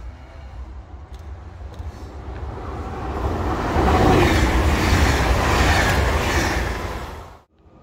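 Double-deck electric TER train running past close by at speed: wheel and rail noise that builds up, peaks for a couple of seconds, then stops abruptly near the end.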